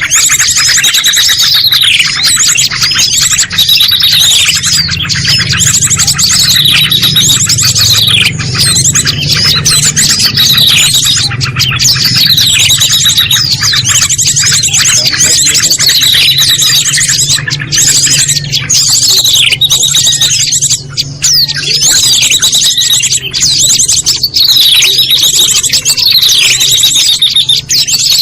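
Recorded calls of small songbirds used as a bird-lure (pikat) track: dense, rapid high-pitched chirping with repeated falling notes, over a faint steady low hum.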